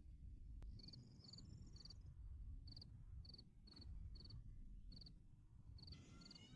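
Faint insect chirping: short pulsed chirps at one high pitch, roughly two a second, over a low background rumble, with a brief rising call near the end.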